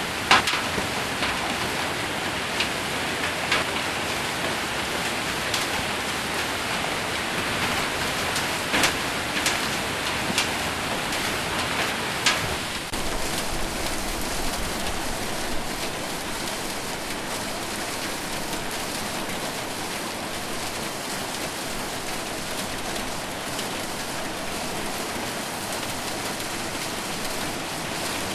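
Heavy rain with hail falling on a metal roof, a dense steady hiss broken by several sharp knocks of single stones in the first half. About halfway through the knocks stop and the rain runs on a little quieter and even.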